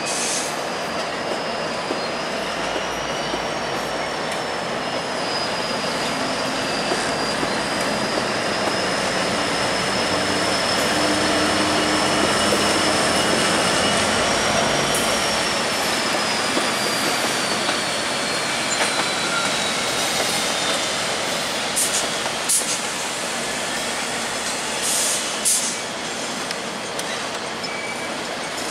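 GO Transit bilevel commuter train hauled by two EMD F59PH diesel locomotives rolling slowly through curved trackwork, its wheels squealing steadily in a high pitch that wavers up and down over a rumble of wheels on rail. It is loudest in the middle as the locomotives pass, and a few sharp clacks come over the rail joints near the end.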